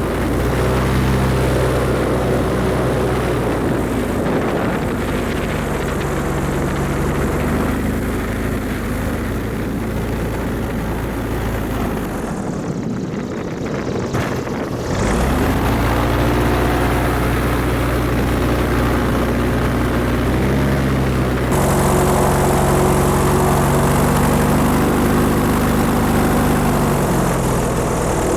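Airboat's engine and propeller running, its pitch rising and falling as the throttle changes. It eases off about halfway through, then picks up again.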